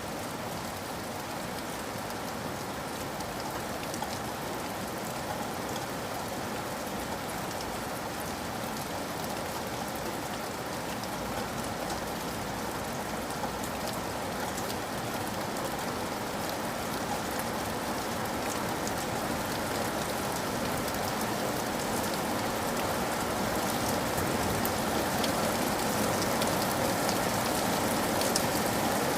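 Steady rain falling, with individual drops ticking through the hiss, slowly growing louder toward the end.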